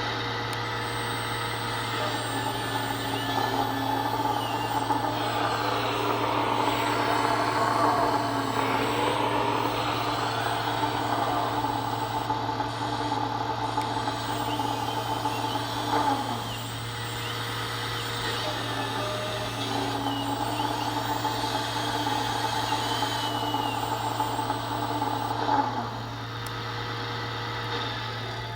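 RC excavator's electronic sound module playing a simulated diesel engine through a small speaker, its pitch rising and falling as it revs and dropping back twice, over a steady low hum.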